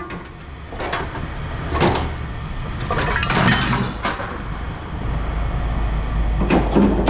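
Scrap metal pieces being handled and set down, giving a few scattered clanks and knocks, over a low engine rumble that grows louder about five seconds in.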